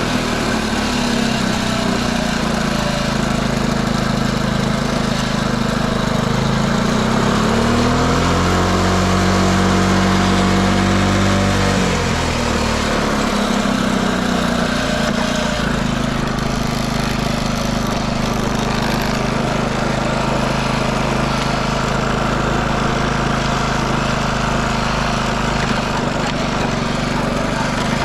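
Honda C70 'andon' Cub's small four-stroke single running, dropping to idle right at the start. About seven seconds in the revs rise and hold for a few seconds, then fall back to a steady idle about halfway through. The engine runs cleanly with no abnormal noise and picks up revs well.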